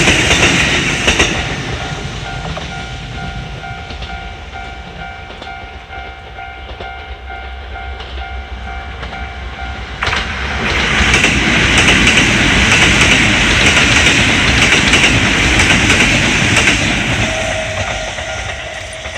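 Trains passing a Japanese railway level crossing while its warning bell rings "kan-kan". A train rushing past fades over the first couple of seconds, leaving the bell ringing on its own. About ten seconds in, a second train suddenly rushes through loudly for about seven seconds and then fades, with the bell still ringing.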